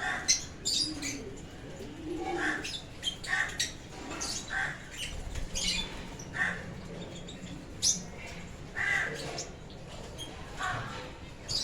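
Lovebirds chirping and squawking in short, irregular calls, about one or two a second.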